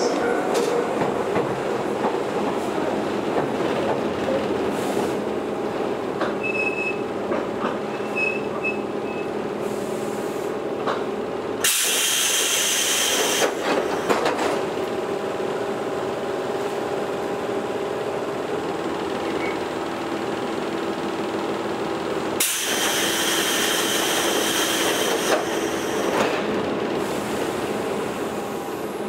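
Toyohashi Railway 1800-series electric train standing at a station stop, its onboard equipment giving a steady hum. Two loud bursts of compressed-air hiss come about 12 and 22 seconds in, each lasting two to three seconds.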